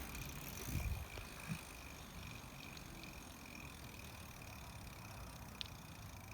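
Bicycle rolling quietly, a low rumble with a faint steady high tone, and a soft bump about a second in.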